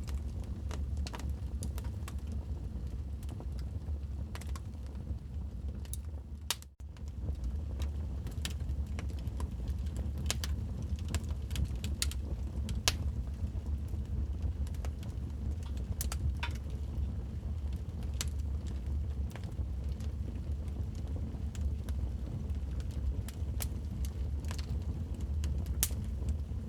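Wood fire in a fireplace crackling, with irregular sharp pops and snaps over a steady low rumble. The sound dips out briefly about seven seconds in.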